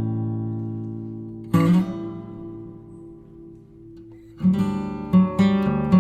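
Background music on acoustic guitar: a strummed chord rings out and fades, another is struck about a second and a half in, and a quicker strummed rhythm starts a little after four seconds.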